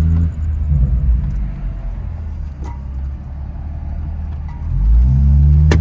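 Car engine running with a heavy low rumble. It eases off through the middle, then climbs in pitch and loudness as it accelerates near the end, with a sharp click just before the end.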